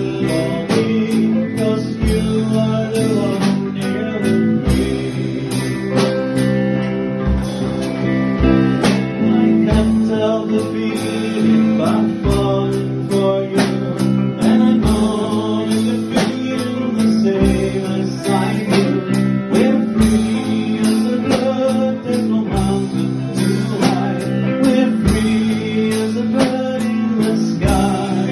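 Small rock band playing a song live: guitar over drums, with a steady fast ticking of high percussion and a deep drum hit every couple of seconds.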